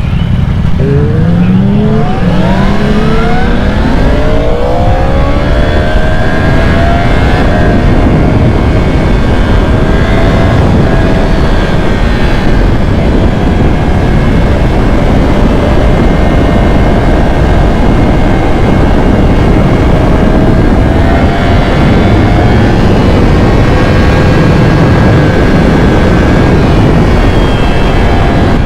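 Sport motorcycle engine pulling hard, its pitch rising steeply through the first few seconds, then holding a steady high-rev cruise with small rises and dips, over heavy wind rush on the microphone.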